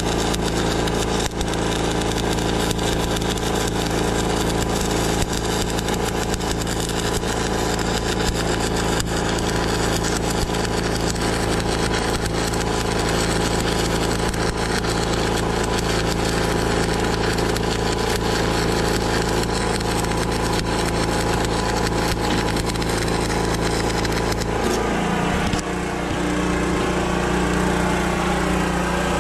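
An engine runs steadily, and its pitch shifts about 25 seconds in.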